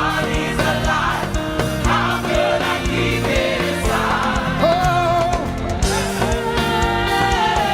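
Live gospel praise music: a band playing with voices singing together, a lead voice holding a long wavering note about five seconds in.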